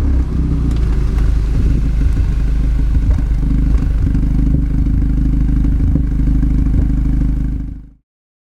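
Audi S3 8P's turbocharged 2.0-litre four-cylinder running at low, steady revs through a BCS Powervalve exhaust with its valve clamped 20% open, with a few faint crackles over the drone. The sound cuts off suddenly about eight seconds in.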